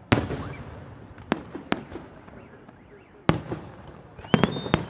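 Aerial firework shells bursting overhead in a salute display: about seven sharp bangs, the loudest just after the start and a little past three seconds, with a quick cluster of three near the end. A brief high whistle rises and holds near the end.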